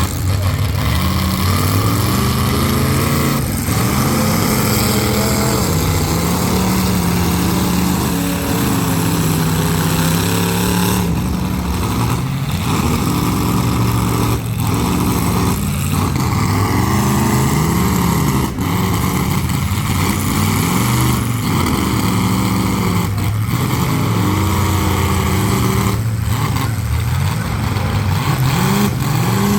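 Full-size demolition derby cars' engines revving up and down again and again, loud and continuous.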